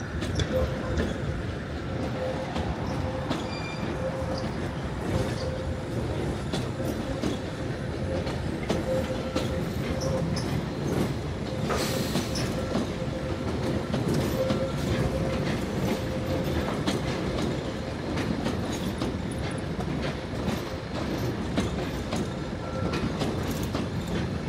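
London Underground tube train running on the rails: a steady rumble with a steady whine, frequent clicks of the wheels over rail joints, and one sharp clack about halfway through.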